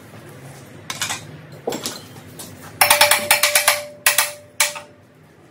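Metal clattering and knocking: a few sharp knocks, then a rapid run of clicks with a ringing metallic note for about a second, then two more knocks.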